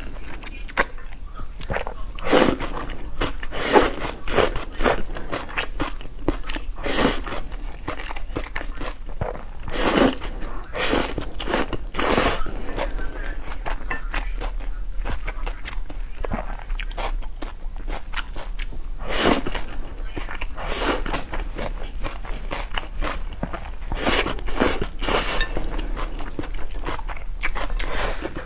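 Close-miked eating of spicy noodle soup: irregular slurps, bites and chewing sounds, some much louder than others.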